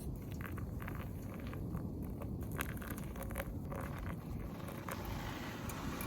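Scattered short clicks and crackles over a low steady rumble.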